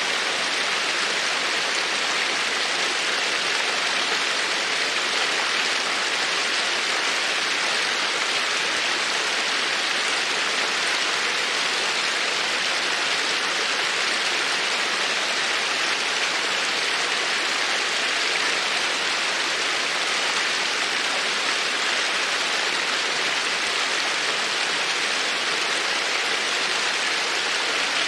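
Babbling creek: a steady rush of flowing, splashing water.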